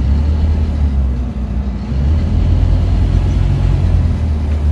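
Scania N230UD OmniCity double-decker bus's five-cylinder diesel engine running under way, a steady low drone. It dips briefly about a second and a half in, then pulls a little louder again.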